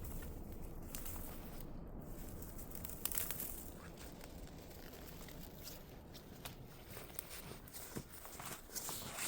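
Steady low blizzard wind noise, with scattered short crunches and rustles from someone moving in snow or handling gear, a cluster about three seconds in and more in the last few seconds.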